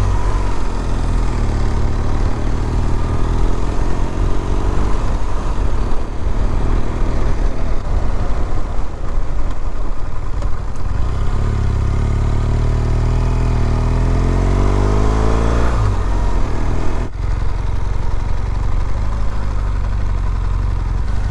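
2018 BMW R1200GS boxer-twin engine pulling away and accelerating, its pitch rising through the gears, then rising again from about 11 seconds in before dropping off sharply near 16 seconds and running low and steady, as if rolling to a stop.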